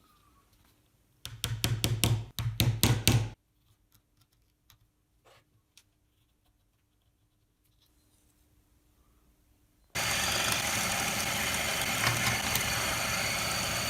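Plywood being cut: a quick run of about eight fast saw strokes, then a few seconds of quiet with faint clicks, then a power tool running steadily from about ten seconds in.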